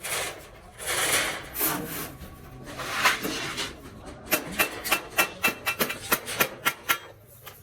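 Hand metalwork on the sheet steel of a truck muffler: a few rasping, scraping strokes, then from about halfway a quick run of light, sharp taps, about four a second, with a slight metallic ring.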